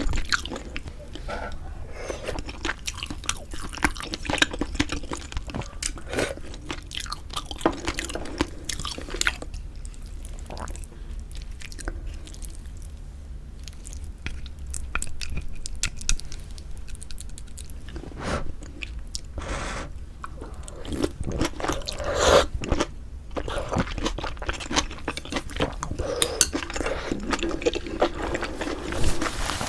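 A person chewing food close to the microphone, with irregular crunches and wet mouth clicks, from a meal of pork-bone soup with glass noodles. It goes quieter for several seconds in the middle, then picks up again.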